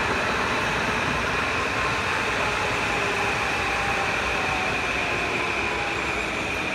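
Electric passenger train running past on the rails: a steady, loud rush of wheels and rolling stock with a high ringing tone held throughout.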